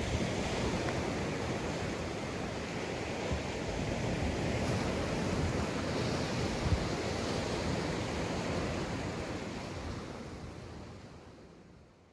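Sea waves washing onto a sandy beach, a steady surf that swells a little midway and fades out near the end.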